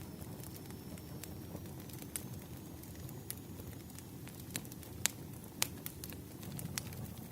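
Firewood burning in an open fire: a steady low rumble with frequent sharp crackles and pops, the loudest two about five seconds in.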